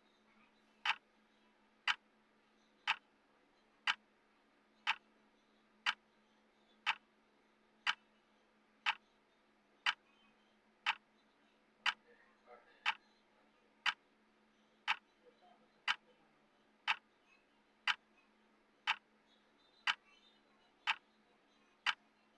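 Clock-style tick of a countdown timer, one sharp tick each second, with a faint steady hum underneath.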